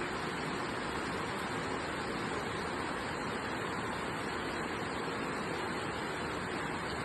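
Steady rain falling: an even, unbroken hiss with no single drops or other sounds standing out.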